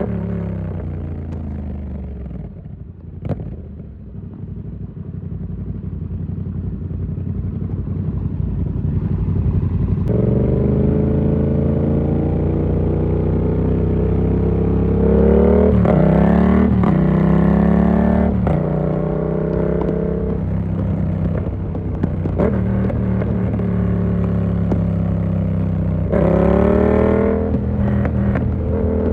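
Yamaha MT-07 parallel-twin engine through an SC Project exhaust with its dB killer fitted. It slows at first, then pulls harder from about a third of the way in, the revs climbing and dropping through gear changes a few times in the second half.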